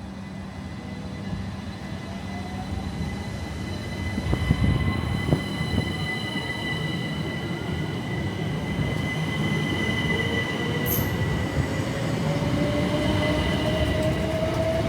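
Southeastern Class 375 electric multiple unit pulling away. Its traction motor whine climbs steadily in pitch as it gathers speed, over a rumble and steady high-pitched squealing tones, and it grows louder. A couple of sharp knocks come about four to five seconds in.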